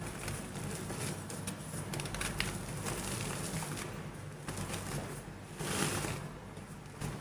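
Soft gym chalk crumbling and being crushed, with fine crackles and small cracks throughout and a louder crumble about six seconds in.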